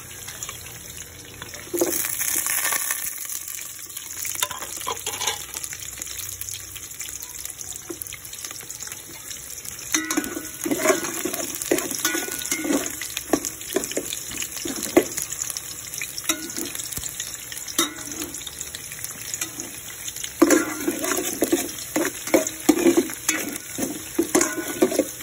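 Chopped garlic and onion sizzling in hot oil in a metal pot, with a spatula scraping and knocking against the pot as it stirs, from about ten seconds in and again near the end.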